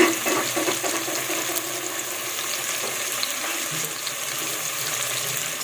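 Sliced onions frying in hot oil, a steady sizzle, stirred with a spoon. The onions are being browned for koshari's crispy fried-onion topping.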